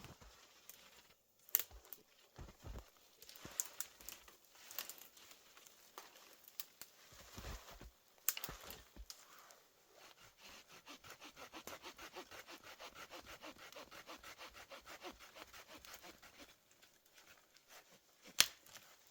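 Wood being sawn by hand in quick, even strokes for several seconds around the middle, with scattered sharp knocks of wood being handled before and after.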